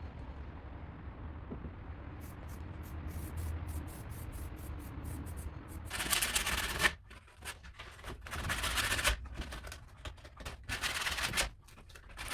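Hand-worked abrasive strokes on wood, each about a second long with short pauses between them, starting about six seconds in, as the old wooden sewing-machine table is cleaned down. Before that there is only a low hum with a few light clicks.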